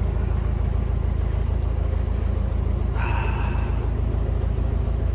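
Narrowboat diesel engine running steadily with a low rumble. A brief higher-pitched sound cuts in about three seconds in.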